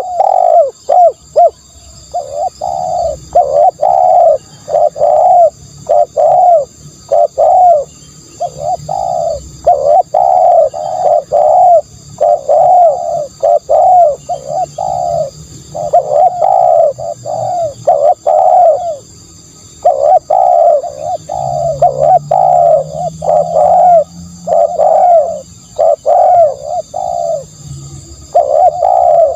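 Spotted dove cooing over and over, in loud runs of short, rhythmic coo notes broken by brief pauses. A faint, steady high-pitched drone runs behind the calls.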